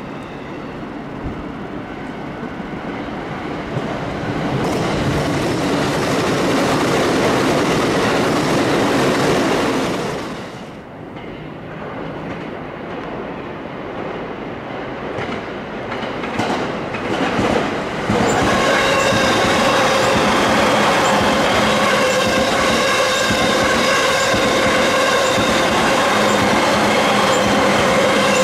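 Electric commuter train moving through a station. Rail and wheel noise builds over the first few seconds, eases briefly about ten seconds in, and from about eighteen seconds turns into a loud, steady high whine made of several held tones.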